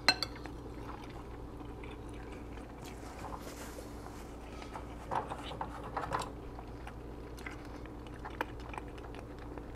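Quiet chewing of a mouthful of rice and ground turkey, with a soft paper-towel rustle about three to four seconds in as the mouth is wiped, over a steady low hum.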